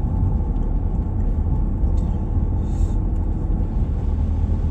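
Steady low rumble of a vehicle driving at road speed, engine and tyre noise heard from inside the cab.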